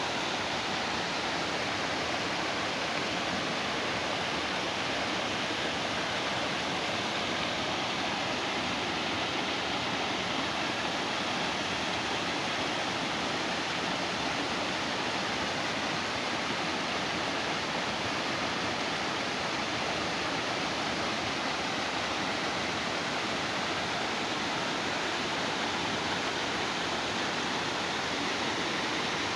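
Running water from a small watercourse: a steady, unbroken rushing hiss that keeps an even level throughout.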